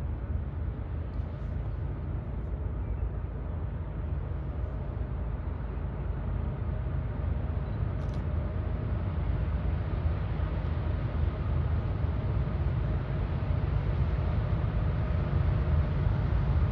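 Diesel locomotives leading a CSX freight train approach, with a steady low engine rumble that grows slowly louder.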